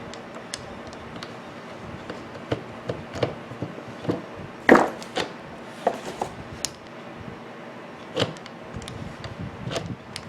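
Scattered knocks and clicks of hand tools against an angle grinder's gear housing as the screws holding the gears are worked loose, with the loudest knock about halfway through.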